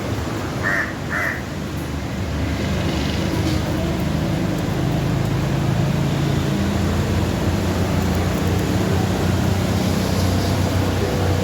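Two short bird calls about a second in, half a second apart, over a steady low rumble that grows louder after about two seconds.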